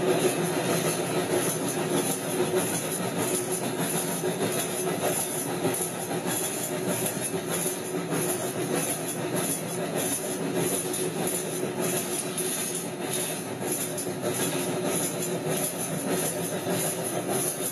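Railroad car rolling along the track: a steady rumble with a continuous metallic rattle and clatter.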